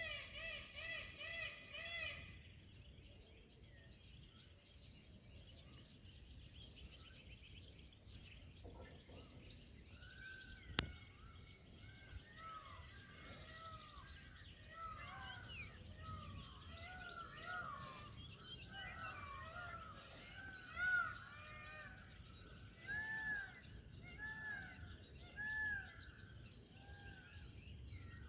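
Birds calling: a rapid series of about six loud, pitched calls at the start, then from about ten seconds in a chorus of short rising-and-falling chirps from several birds, a few of them louder near the end. A steady high-pitched whine runs underneath, and a single sharp click sounds about eleven seconds in.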